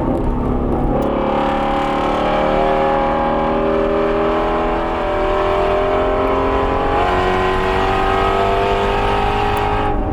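Shelby GT350R's 5.2-litre flat-plane-crank V8 pulling hard under load at track speed, its pitch climbing steadily through a gear for about seven seconds, then holding before a break near the end.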